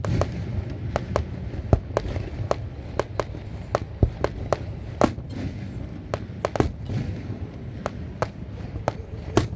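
Fireworks display: an irregular, rapid string of sharp bangs and crackles, about two or three a second, over a continuous low rumble of distant bursts.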